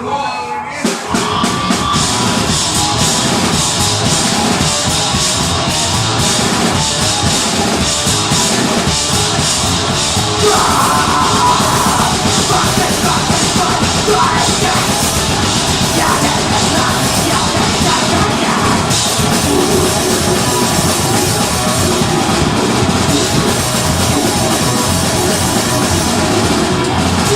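Deathgrind band playing live at full volume: distorted guitars, bass and drum kit crash in together about a second in and keep going, with yelled vocals on top.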